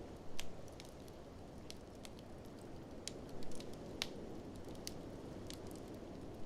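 Wood fire in a fireplace crackling, with sharp pops scattered irregularly and a few louder ones about half a second in and around three and a half to four seconds, over a steady low rushing background.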